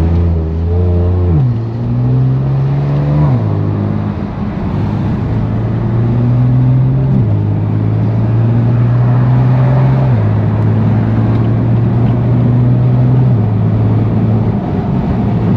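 The 2018 BMW M3 Competition's twin-turbo inline-six, on catless downpipes and a single midpipe with the valved axle-back held open, pulling away under moderate throttle. Its exhaust note climbs slowly in each gear and drops at each of several upshifts.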